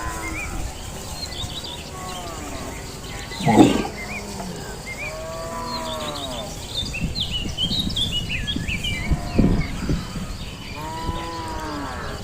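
Cattle mooing: about four calls that rise and fall in pitch, spaced a few seconds apart. A short loud noise comes about three and a half seconds in, and high chirps are heard in the middle.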